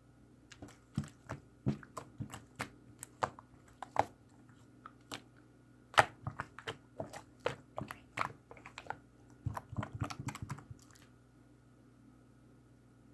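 Chocolate milk slime being squished and pressed by hand, giving an irregular string of small sharp clicks and pops that stops about eleven seconds in.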